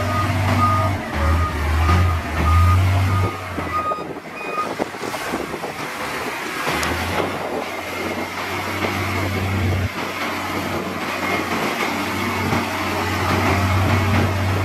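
A heavy earthmoving machine's diesel engine runs while its reversing alarm beeps steadily, nearly twice a second, signalling that the machine is backing up. The beeping stops about four seconds in; later a higher-pitched tone sounds over the engine.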